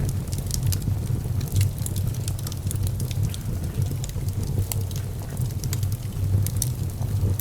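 Wood fire burning in a fireplace, with frequent small crackles and pops over a steady low rumble of the flames.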